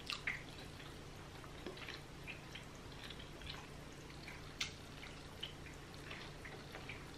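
Close-up chewing of a soft tortilla wrap: faint, irregular wet smacking and clicking mouth sounds, with a few louder clicks just after the start and about halfway, over a low steady hum.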